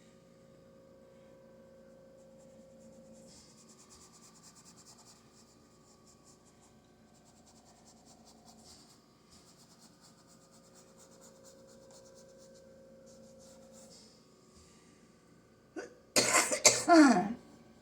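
Faint, intermittent scratching of a brush on canvas, then near the end one loud, sudden burst from a person's throat that falls in pitch.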